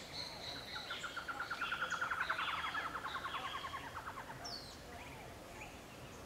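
A bird calling: a fast chattering run of short notes lasting about three seconds and falling slightly in pitch, with other birds chirping around it.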